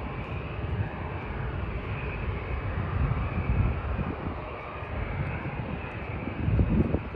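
Jet airliner's engines rumbling steadily.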